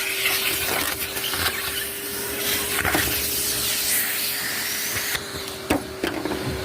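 An old vacuum runs steadily with a constant motor hum while it sucks leaves out of a boat. Sharp clicks and knocks sound over it, more of them near the end.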